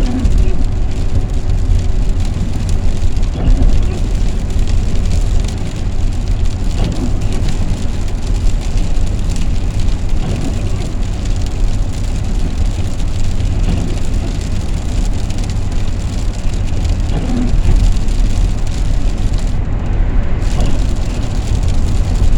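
Steady road noise heard inside a moving van's cabin: a deep engine and tyre rumble with a hiss of tyres on the wet road.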